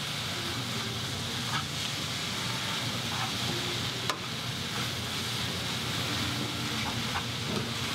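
Pad thai noodles and vegetables sizzling in a hot nonstick frying pan while being stirred and tossed with a plastic spatula: a steady frying hiss, with one sharp click about four seconds in.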